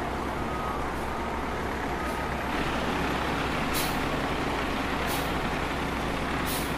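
Heavy truck engine running steadily amid street noise, with three short hisses about a second and a half apart in the second half.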